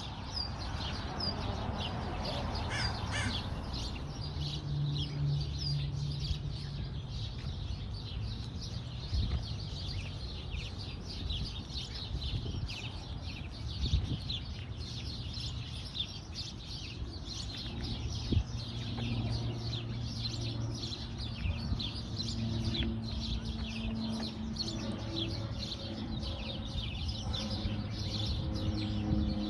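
Small birds chirping continuously, many short high chirps in quick succession, over a low steady hum.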